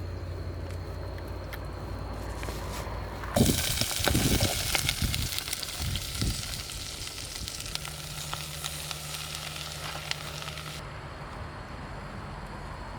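Food sizzling in a hot pan, starting about three seconds in with a few heavy thuds and cutting off sharply near the end, over a steady low hum.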